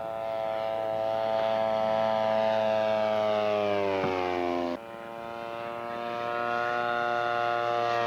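Radio-controlled scale model airplane's piston engine on a low flyby: a steady buzzing drone that grows louder, then drops in pitch as the plane passes. The sound cuts off suddenly about five seconds in, comes straight back and builds again.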